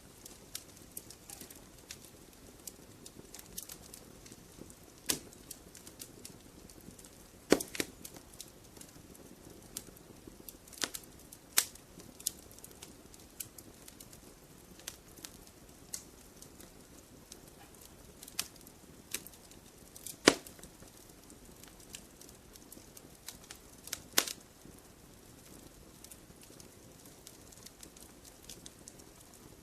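Wood fire crackling in a fireplace: irregular sharp pops and snaps, a few of them much louder, over a low steady hiss.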